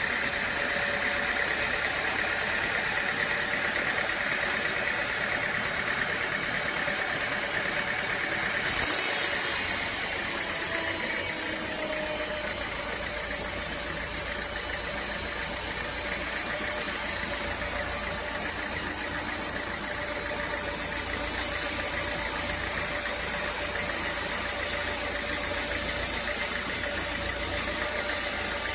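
Engine-driven sawmill machinery running steadily with a mechanical drone. About nine seconds in, the sound changes abruptly to a louder hiss that carries on.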